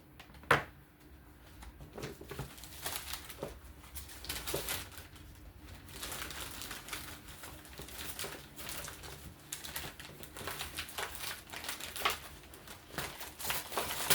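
Rummaging and handling noises: a dense run of small clicks, knocks and rustling as things are picked up and moved about.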